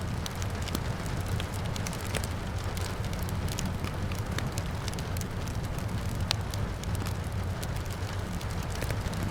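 Wood fire crackling in a fireplace: many small irregular pops, with one sharper pop about six seconds in. Under it run a steady low rumble and the hiss of rain.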